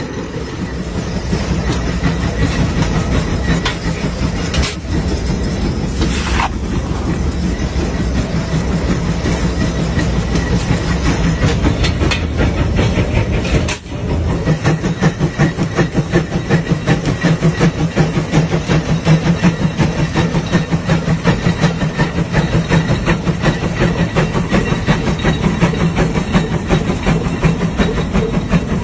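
Old tractor's diesel engine running with a steady, rhythmic beat. It drops out for an instant about halfway through, then carries on with a more pronounced beat.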